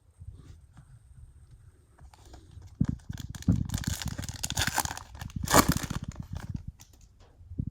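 Foil trading-card pack wrapper being torn open and crinkled, an irregular run of crackling and rustling that is loudest in the middle.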